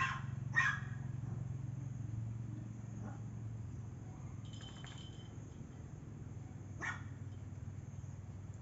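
Dog barking: two quick barks at the start and one more near the end, over a steady low hum.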